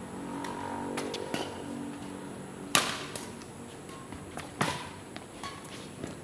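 Badminton rally: rackets striking the shuttlecock with sharp cracks, the two loudest about three and four and a half seconds in, with lighter taps in between.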